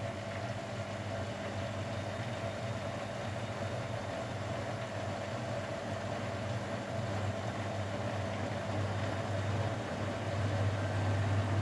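Grundig Mini 14 washing machine's drain pump running with a steady electric hum over gurgling water, the hum getting stronger near the end.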